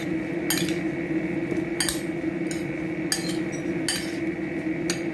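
A spoon mixing chopped salsa in a bowl, clinking against the bowl about once a second, over a steady background hum.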